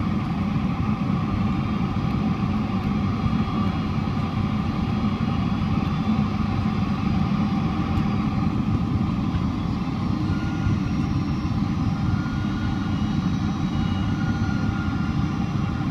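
Boeing 767-400ER jet engines running, heard inside the passenger cabin as a steady, dense rumble with several thin whine tones above it; a faint higher whine comes in about ten seconds in.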